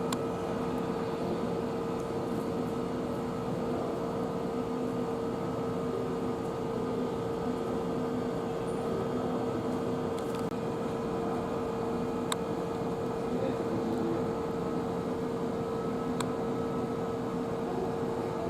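Steady hum of an electric train's equipment, heard from inside the car: a constant tone over an even noise, with two faint clicks, one past the middle and one near the end.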